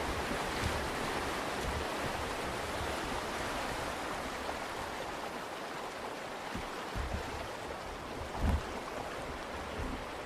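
Steady rushing of river rapids at a waterfall in high water, with a few short low thumps, most likely wind on the microphone, in the second half.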